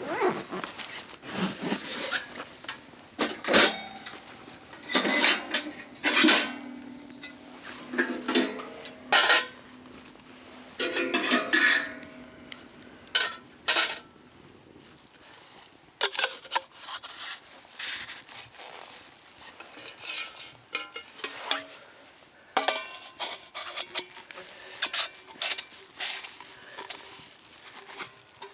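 Metal utensil knocking and scraping against a metal pan while fried rice is stir-fried: irregular clanks at an uneven pace, some leaving a short ringing tone.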